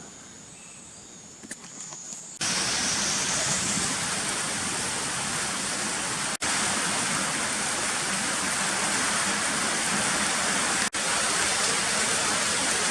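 Heavy rain: a loud, steady hiss that cuts in suddenly about two seconds in, after a quiet stretch with a faint high steady tone. It breaks off twice for an instant.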